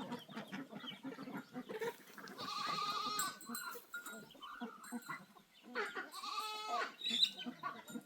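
A goat bleating twice: two long, wavering calls about four seconds apart, over softer farmyard clutter.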